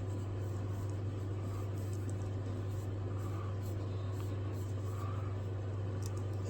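Steady low hum at an even level, with faint soft rubbing sounds recurring about once a second.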